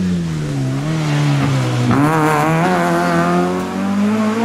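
Rally hatchback's engine under hard driving: the revs fall away for about two seconds, break briefly near the middle, then climb steadily as the car accelerates away.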